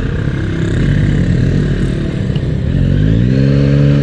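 Motorcycle engine running while riding, with wind and road noise. Near the end the revs rise and then fall back.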